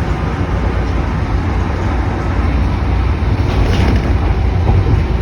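Steady low rumble of a moving vehicle, heard from inside as road and engine noise.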